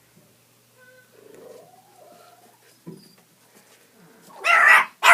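Pet dogs whining faintly, then barking loudly a few times near the end.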